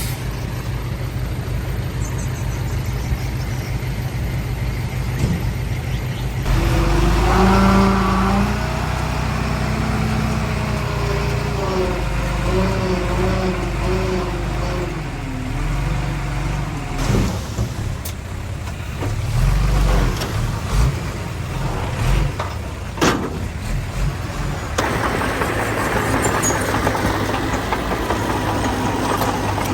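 Heavy diesel earthmoving machinery running: a bulldozer and dump trucks, engines changing pitch as they work, with a few sharp clanks. The sound changes abruptly about six seconds in and again near the end.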